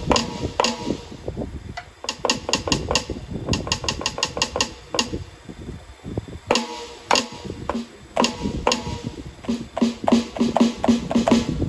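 Alesis Nitro Mesh electronic drum kit being played: a drum groove broken by quick fills of rapid strikes, twice, with pitched tom hits.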